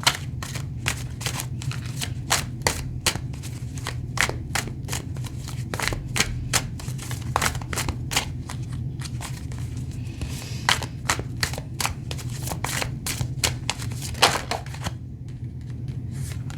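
Tarot deck being shuffled: a long run of crisp card clicks and slaps, several a second, that stops about fifteen seconds in.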